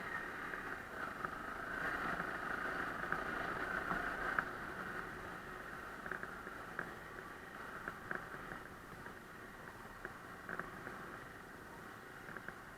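Dirt bike engine running on a trail, the sound easing off gradually, with scattered sharp clicks.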